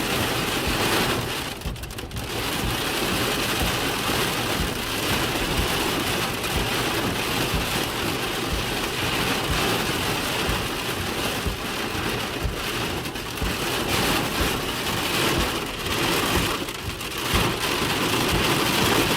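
Heavy rain mixed with small hail pelting down steadily, a dense patter with many small hits throughout.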